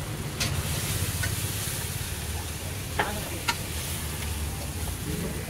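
Masala gravy of onion, ginger-garlic paste and ground spices frying in oil in a wok, stirred with a metal ladle: a steady sizzle with a few sharp clanks of the ladle against the wok, the loudest about three seconds in, over a steady low rumble.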